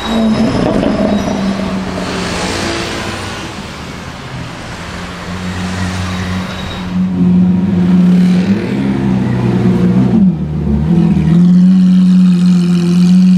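Sports car engine running loud, its note holding steady and growing louder about seven seconds in, dropping briefly around ten seconds in, then settling back to a steady drone.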